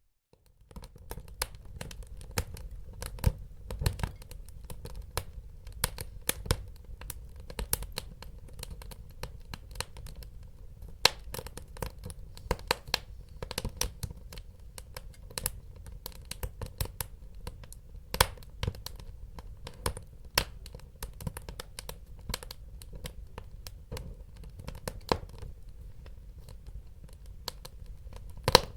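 Wood fire in a fireplace crackling: frequent sharp pops and snaps, irregular and sometimes in quick clusters, over a steady low rumble of burning. It starts about half a second in.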